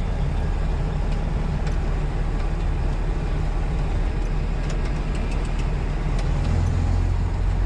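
Semi-truck diesel engine running with a steady low drone, its deep note growing louder about six seconds in.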